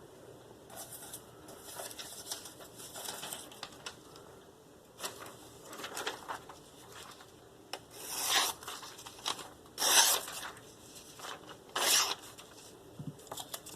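A steel knife edge drawn across a fine Spyderco ceramic sharpening stone in light, irregular scraping strokes, the final burr-removing passes. Three louder strokes come in the second half.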